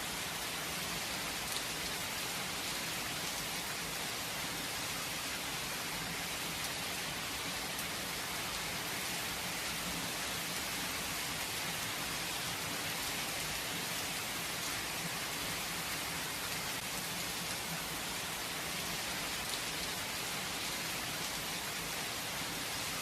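Steady rain falling, without thunder: an even hiss of drops on surfaces that holds steady throughout.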